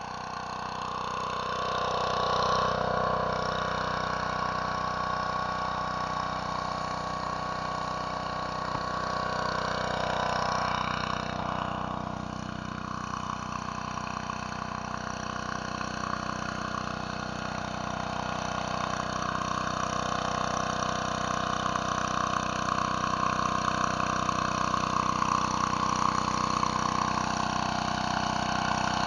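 Petrol engine of a pressure washer running steadily, with a noisy hiss above it.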